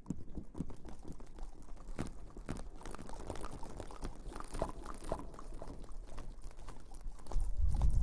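Close-miked ASMR trigger sounds: dense, irregular rustling and crackling made of many small clicks in quick succession, with a louder low rumble coming in near the end.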